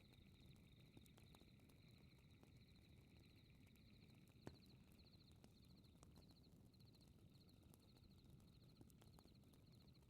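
Faint fireplace crackling: a low steady rumble of the fire with scattered small crackles and one sharper pop about four and a half seconds in, under a rhythmic high chirping that repeats about twice a second.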